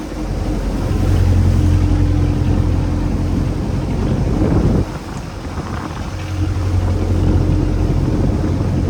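Boat engine running with a steady low hum, easing off briefly about halfway through and then picking up again, with wind noise on the microphone.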